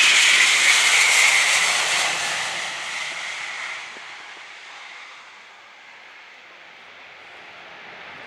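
Jet engine noise of an Airbus A380 with Rolls-Royce Trent 900 engines flying past, loud at first and fading over about five seconds as it moves away, leaving a faint distant hiss.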